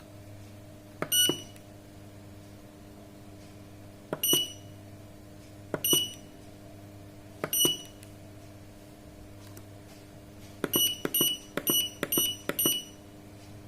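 Sanken digital solar water heater controller beeping as its buttons are pressed: short high beeps, each with a click, one every second or two, then a quick run of five near the end. A steady low electrical hum lies underneath.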